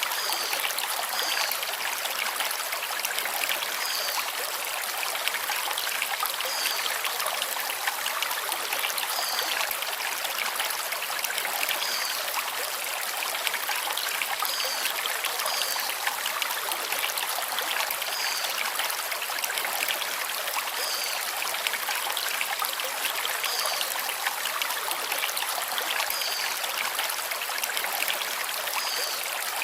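Forest stream flowing over stones, a steady rushing and trickling, with a small bird giving a short high chirp every two to three seconds, now and then twice in quick succession.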